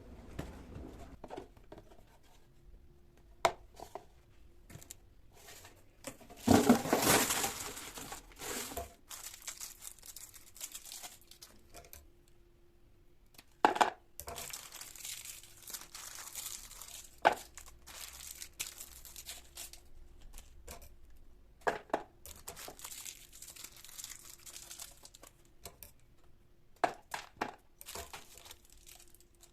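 Handling noises: irregular sharp clicks and taps with bursts of rustling, the longest and loudest about six to nine seconds in, over a faint steady hum.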